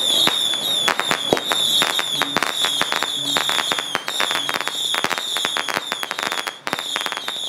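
A string of firecrackers going off in rapid, irregular pops, with a shrill, piercing wind-instrument tone wavering over them.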